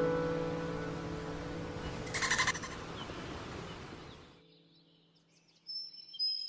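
Sustained music notes fading out, over outdoor ambience with a short animal call about two seconds in. Short high bird chirps come in near the end, after a brief lull.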